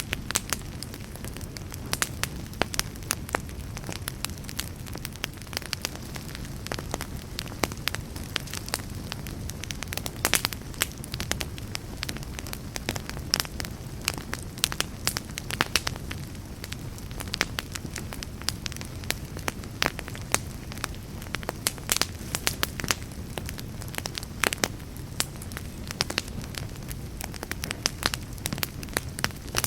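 Fireplace fire crackling, with many irregular sharp pops over a low, steady rumble of the flames.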